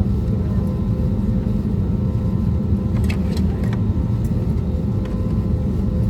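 Steady cabin rumble of an Airbus A320neo with CFM LEAP-1A26 engines, heard from inside the cabin, with a few faint steady tones above the rumble. A few short clicks or rattles come about halfway through.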